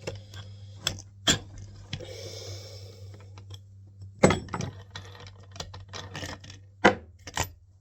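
Sharp clinks and knocks of metal tools and parts being handled on a workbench, with a brief rustle about two seconds in, over a steady low hum.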